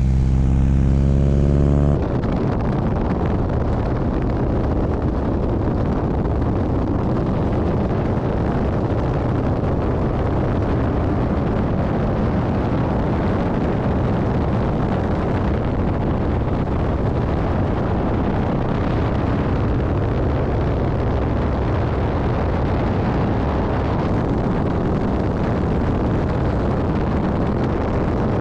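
Steady loud roar of an aerobatic plane's propeller engine and rushing wind, as picked up by an action camera mounted on the aircraft. The first two seconds carry a low, steady droning tone before the roar takes over.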